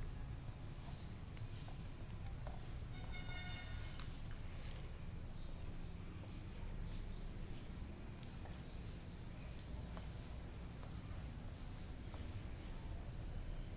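Outdoor natural ambience: scattered short bird chirps and calls over a steady, high-pitched insect trill, with a low rumble underneath.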